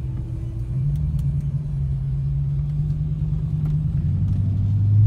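2013 Chrysler 300 SRT8's 6.4-litre 392 Hemi V8 through an SLP Loudmouth cat-back exhaust, heard from inside the cabin as a steady low drone while driving. It grows louder about four seconds in.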